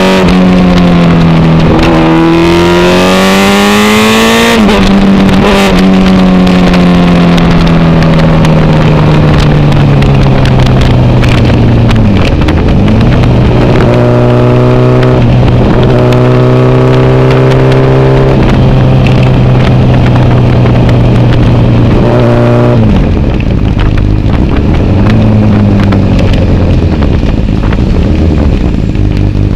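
Motorcycle engine heard while riding. It rises in pitch over the first few seconds, drops suddenly as the rider shifts, then runs at a steady pitch with a couple of brief dips where the throttle is eased off. Wind rushes over the microphone.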